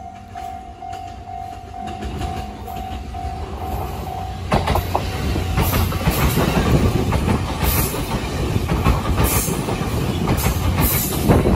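A steady single tone sounds for about four seconds, then an express train suddenly rushes past close by: loud rushing noise with rhythmic wheel clatter over the rail joints.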